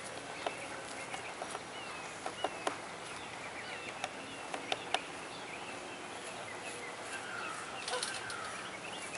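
Woodpecker pecking at wood: single sharp taps at irregular intervals, several in quick succession near the middle. Faint bird chirps in the background.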